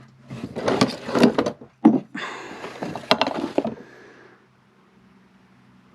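A burst of knocks and clattering as small items are rummaged for and handled on a workbench, several sharp clicks among them. After about four seconds it stops, leaving only a faint steady low hum.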